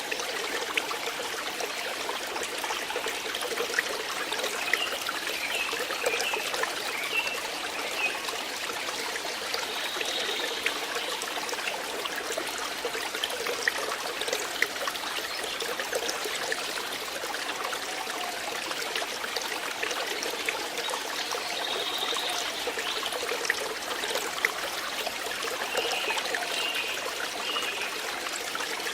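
Flowing water trickling steadily, with many small splashes and drips through it.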